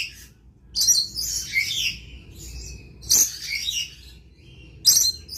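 Lorikeet calling in three bursts of high, chattering chirps, each about a second or less, a couple of seconds apart.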